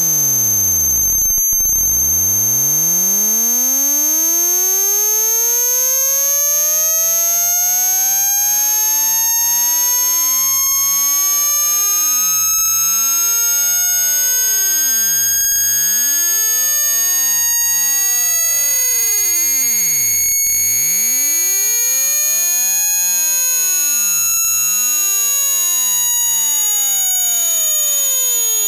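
Electronically generated sine-tone frequency sweep from a speaker-cleaning track, meant to vibrate dust and water out of a phone speaker grill. The tone drops very low about a second and a half in, then climbs slowly and steadily in pitch, over a constant high-pitched whine.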